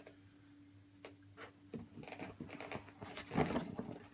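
A cardboard box being handled and turned over: scattered taps and scuffs, then a louder scrape about three seconds in, over a faint steady low hum.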